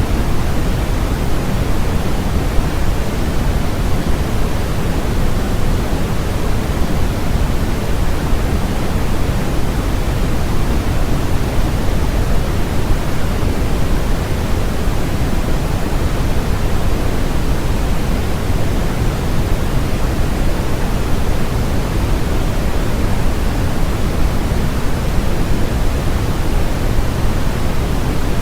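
Continuous synthetic noise, steady and unchanging, with its weight in the low end rather than the flat hiss of true white noise.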